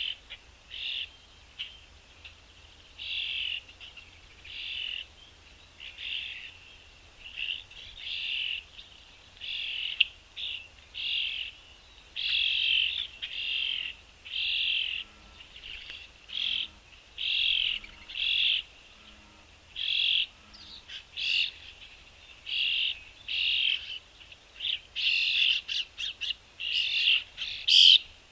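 Small birds chirping: short, high calls repeating about once or twice a second, coming faster and louder near the end.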